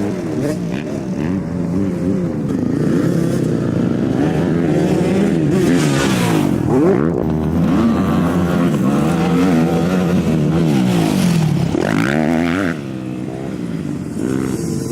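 Several motocross dirt bike engines riding a track, their pitch sweeping up and down with throttle and gear changes and overlapping as bikes pass. The sound drops somewhat about thirteen seconds in.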